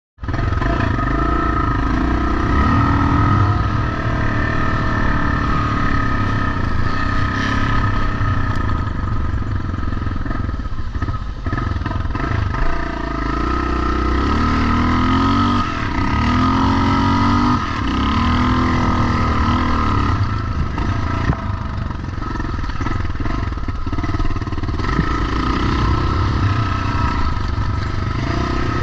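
Pre-1990 motocross motorcycles running on a track, several engines at once, their pitch rising and falling as they rev up and back off.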